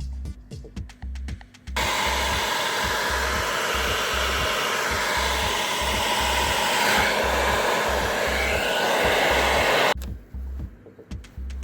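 An ordinary household hair dryer is switched on about two seconds in, blows steadily for about eight seconds, then is switched off. It is warming the adhesive of a car door's sound-deadening mat so the mat can be peeled off. Background music with a steady low beat plays underneath.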